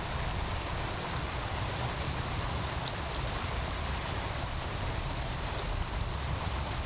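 Wood fire crackling with scattered sharp pops, the clearest about three seconds in and again near the sixth second, over the steady rush of a running meltwater stream and a low rumble underneath.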